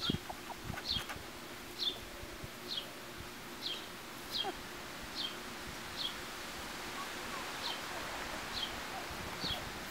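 A bird calling with a short, high, falling chirp, repeated evenly about once a second, with a brief gap about two thirds of the way in.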